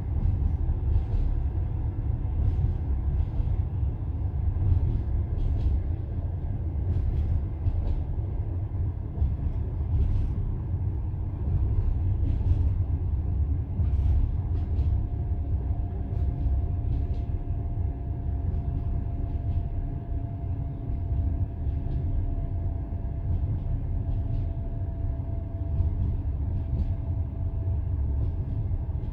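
Passenger train carriage rolling along the line: a steady low rumble with the clack of wheels over rail joints. A faint steady whine joins the rumble about halfway through.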